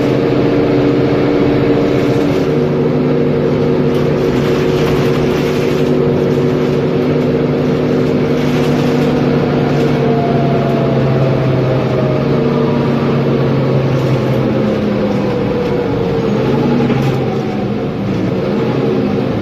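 Mercedes-Benz Conecto G articulated bus's OM457LA inline-six diesel engine running steadily, its drone changing pitch about two seconds in. A higher whine slides slowly downward through the second half.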